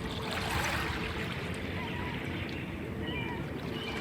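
Cove-side outdoor ambience: a few short, high bird chirps over a steady low rumble, with a brief rush of hiss about half a second in.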